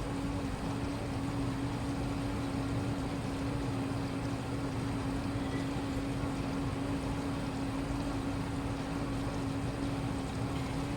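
Washing machine running steadily, with a constant hum at one pitch over a whooshing noise.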